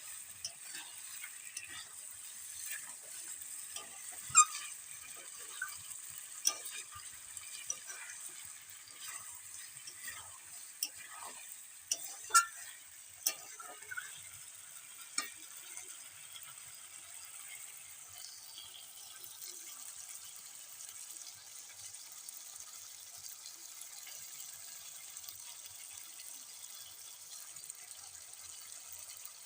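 Chicken curry frying in mustard oil in a kadai with a steady sizzle, as it is sautéed down until the oil separates. A metal spatula scrapes and knocks against the pan in sharp clicks over the first half, then only the sizzle goes on.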